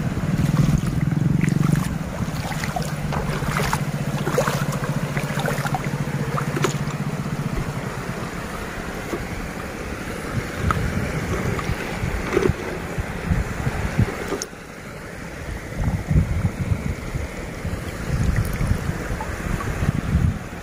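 Wind buffeting the microphone over the wash of the sea, with a few sharp clicks and knocks. A steady low hum runs through the first half, then stops.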